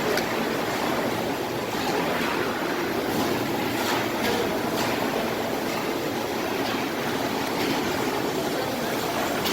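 Walk-behind wet floor scrubber running, its motors and scrubbing giving a steady, even noise.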